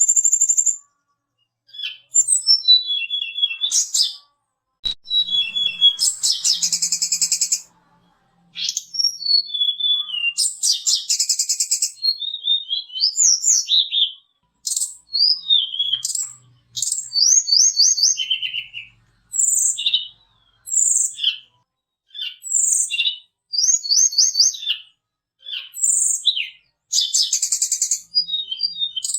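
Tledekan gunung (sulingan) songbird singing a varied, high-pitched song of short whistled notes, quick trills and rattling chatters, in phrases of about a second separated by brief gaps.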